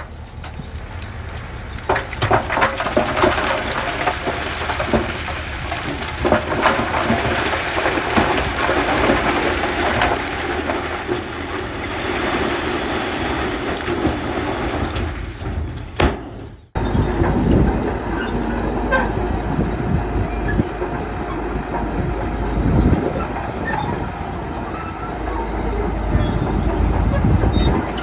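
Shantui crawler bulldozer at work: diesel engine running under load, with steel tracks clanking and gravel and sand scraping and rattling. After a brief break about sixteen seconds in, the engine's deep rumble is stronger, with clanks over it.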